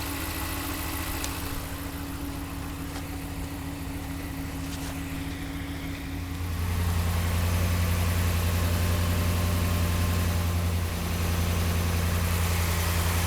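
2016 Ram pickup's engine idling steadily, a low even hum. About six and a half seconds in it gets clearly louder as the microphone is brought close to the engine.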